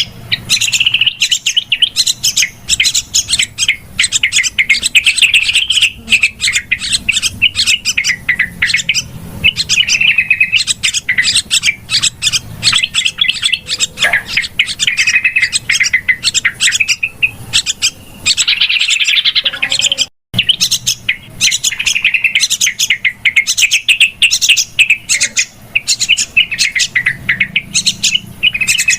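Yellow-vented bulbuls (trucukan) chattering noisily in dense, rapid chirps with no pause. This is the busy, excited calling used as a lure. The sound cuts out for a split second about two-thirds of the way through.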